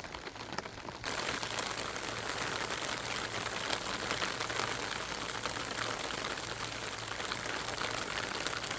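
Rain falling, with separate drops ticking at first; about a second in it turns louder and denser into a steady rain hiss.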